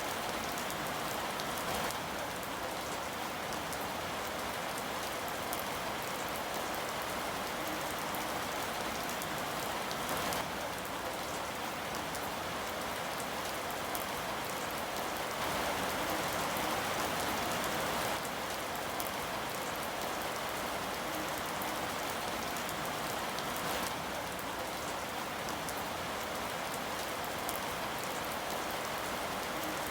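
Steady rain falling, an even hiss with many small drop ticks, swelling slightly louder for a few seconds midway.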